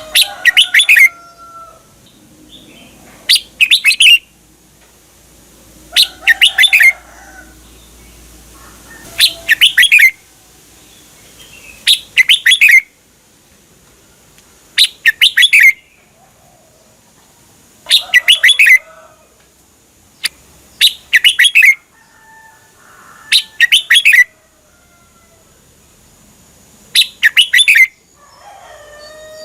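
Red-whiskered bulbul singing. It repeats a short, bright phrase of several quick notes about every three seconds.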